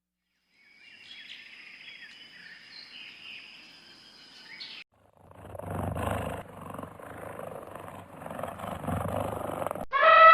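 Faint high bird chirps for a few seconds, then after a short gap a louder, rough, low animal call in several pulses, like a big cat's growling roar.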